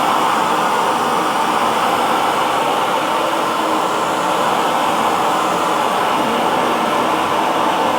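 Hair dryer running at a steady setting, a constant whooshing blow with a faint whine from its motor.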